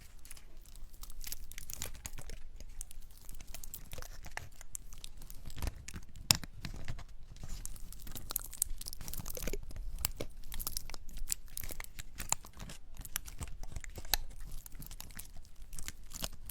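Two small dry pine cones handled close to the microphone as they are pinned in place, their scales crackling and scraping in dense, irregular clicks. There is one sharper snap about six seconds in.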